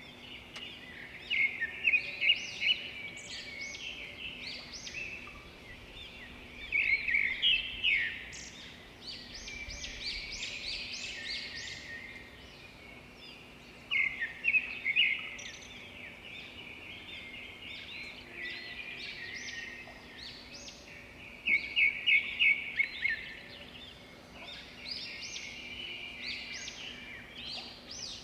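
Birds chirping and calling in a busy chorus, with bursts of rapid, loud chirps every several seconds. A faint steady hum runs underneath.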